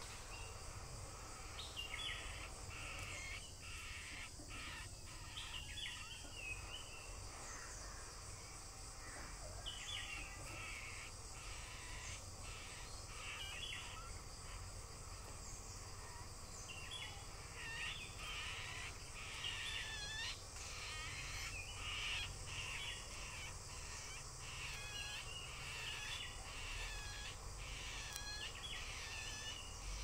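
Birds calling: short, high calls repeated in runs, with the busiest stretch in the second half.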